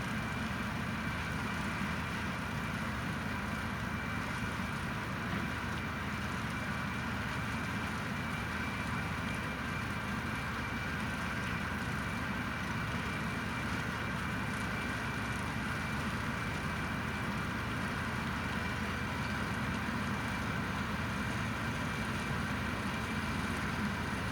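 A tractor engine and a trailed Standen T3 three-row potato harvester running steadily while lifting potatoes, a low rumble with a steady high whine over it.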